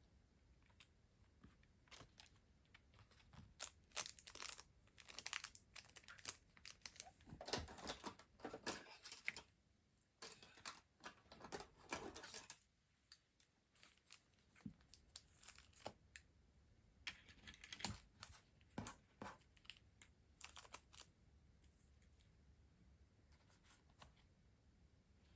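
Stationery packaging being handled and opened: soft crinkling and tearing of wrapping, with scattered small clicks and taps, in clusters that fade out near the end.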